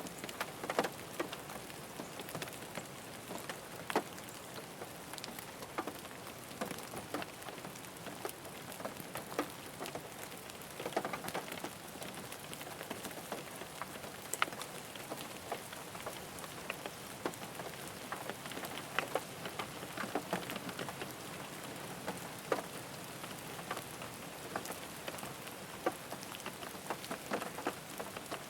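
Rain falling on a car, a steady hiss with many separate drops tapping sharply on the roof and glass.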